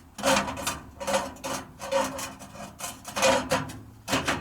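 Metal scraping and clattering from a newly unpacked wood-burning stove as its parts are handled: about ten short scrapes, roughly two a second, each with a ringing tone.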